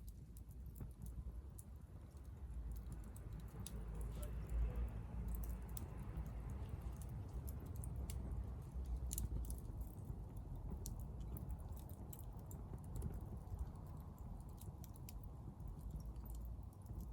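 Hardwood fire burning in a small titanium fire pit, crackling with scattered sharp pops over a low steady rumble.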